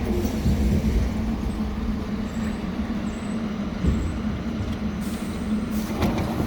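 Staten Island Railway electric train running, a steady low rumble with a constant hum.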